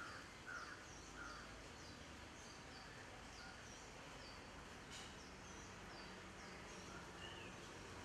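Faint outdoor background with birds chirping: a string of short, high, falling notes repeated a few times a second, with a single soft click about five seconds in.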